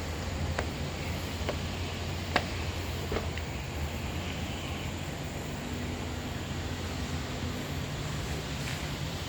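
Footsteps on a walkway, four steps a little under a second apart in the first three seconds, over a steady rushing outdoor background with a low hum.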